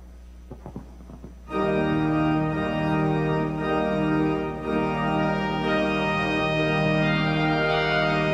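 Church organ postlude: the organ comes in about a second and a half in with loud, sustained full chords, after a brief hush broken by a few soft knocks.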